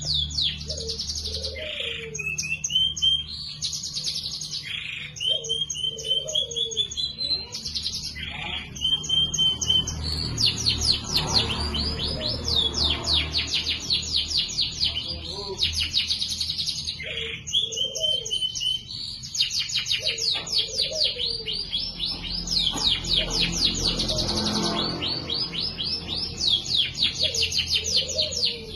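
Domestic canary singing continuously, with long rapid trills and chirps and rising whistled notes.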